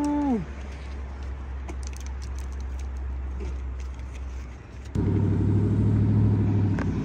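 Vehicle engine running low and steady, then much louder from about five seconds in as it revs or pulls off. A drawn-out voice trails off at the very start.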